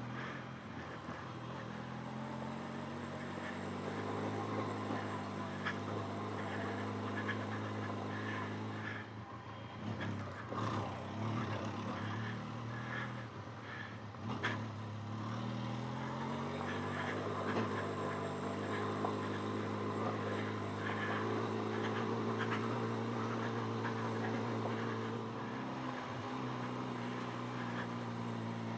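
Benelli TRK 502X's parallel-twin engine running at low revs on a rough unpaved track, its pitch dipping and rising with the throttle, with a few sharp knocks around the middle.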